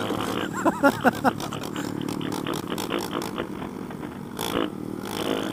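Small motorcycle engine running steadily under way, a Honda Grom's 125 cc single-cylinder, with rumbling and clicking on the microphone.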